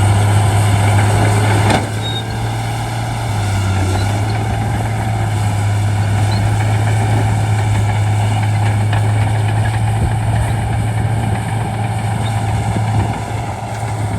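Shantui D95 crawler bulldozer's diesel engine running steadily with a deep, even note, easing slightly in level about two seconds in.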